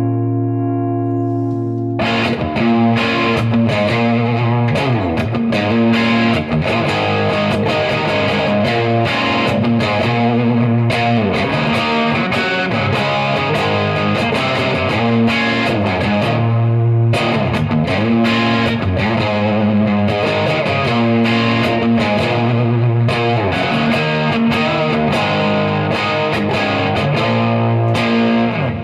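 Electric guitar (Gibson Les Paul with humbuckers) played through an overdrive pedal into a Marshall amp, with a distorted tone. A held chord rings for about the first two seconds, then busy picked lines and chords follow.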